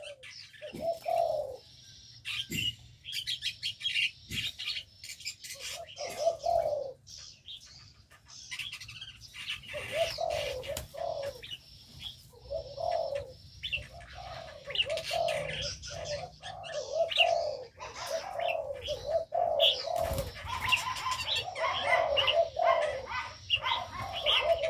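Aviary birds calling: repeated low cooing phrases, like a dove's, overlaid with frequent higher chirps from smaller birds. The calls grow busier from about ten seconds in.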